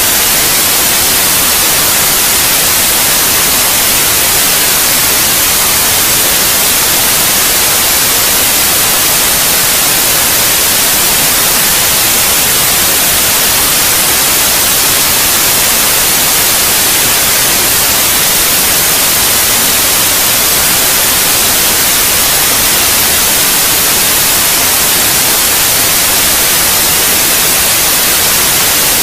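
Steady, loud white noise, an even hiss strongest in the treble, with no change or breaks; played as a sleep aid for babies.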